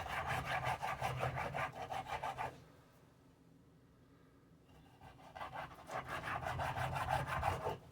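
Knife sawing back and forth through a thick salmon slab and its skin against a cutting board, in rapid scraping strokes. The sawing stops about two and a half seconds in and starts again about five seconds in.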